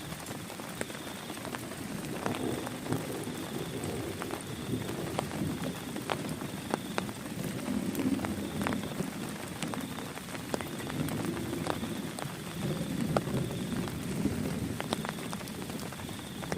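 Heavy rain falling steadily, with many sharp separate drops tapping on a nearby surface; the rush swells and eases in waves.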